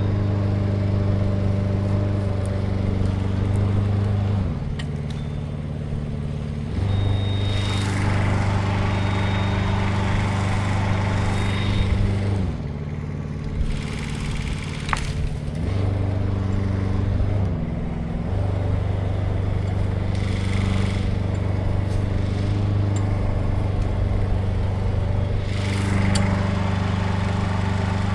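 An engine running steadily. Its speed drops to a lower note and comes back up several times: about 4.5 s in, about 12.5 s in and briefly around 17.5 s.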